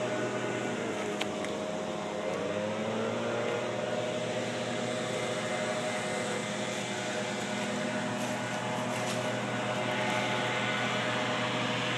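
An engine runs steadily, its pitch briefly dipping and rising again about two seconds in, over a constant hiss.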